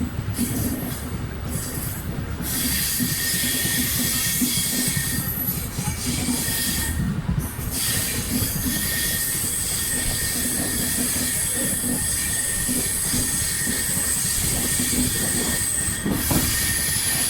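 Coaches of the New Delhi–Howrah Duronto Express rolling past on the rails: a steady rumble of wheels on track with a continuous high-pitched ring over it.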